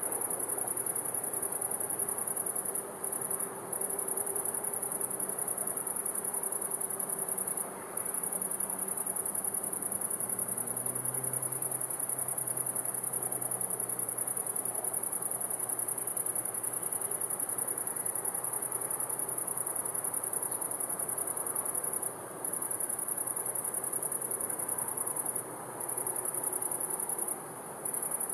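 Crickets chirping in a continuous high-pitched trill that breaks off for a moment several times, with a faint low hum underneath.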